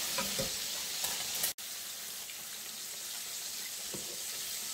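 Flour-dredged pork chops frying in hot oil in a cast-iron skillet: a steady sizzle, with a few faint utensil knocks against the pan. The sound cuts out for an instant about a second and a half in.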